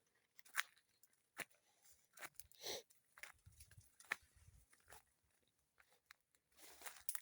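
Faint, irregular crackles and snaps of dry leaves and twigs: footsteps moving through dry undergrowth.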